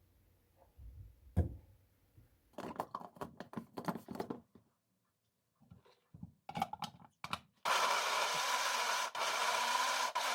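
A few clicks and brief rubbing and handling noises, then a hair dryer switches on near the end and runs with a steady blowing whine.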